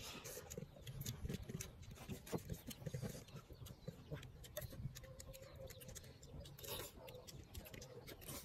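Close-miked eating: chewing and lip-smacking, heard as many small irregular clicks and crackles, as a person eats fried larvae and rice with his fingers.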